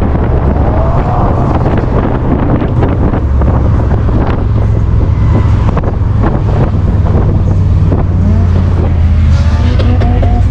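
A car engine running loudly and steadily, with wind buffeting the microphone.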